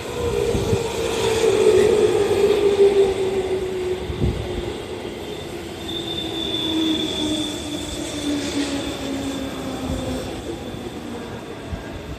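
JR Central 311 series electric train arriving and braking to a stop at a station platform: its motor whine falls steadily in pitch as it slows. A high brake squeal joins about six seconds in, and there are a few wheel knocks over rail joints.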